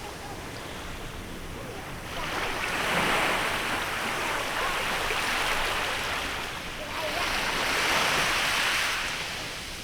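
Small waves breaking on a beach in a bay, twice: a wash of surf swells up about two seconds in, fades, and a second one swells up about seven seconds in and dies away near the end.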